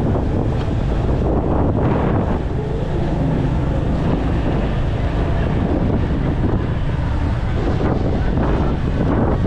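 Wind buffeting the microphone of a rider on a moving motorbike, a steady low rumble with the bike and traffic underneath.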